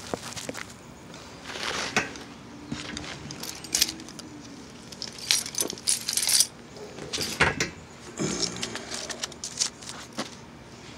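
Irregular metallic clinks and rattles of small hard parts being handled, with a faint steady hum from about a second and a half in that stops a few seconds later.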